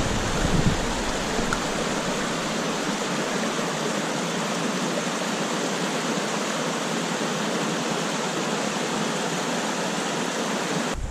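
Mountain stream water rushing in a steady, even hiss, with a little low rumble in the first second.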